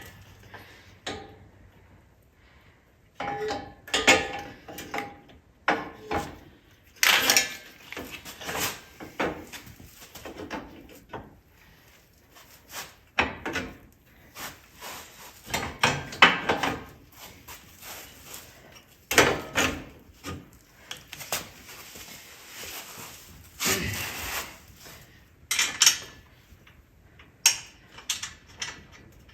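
Irregular clanks and knocks of metal parts and tools being handled, some with a short metallic ring.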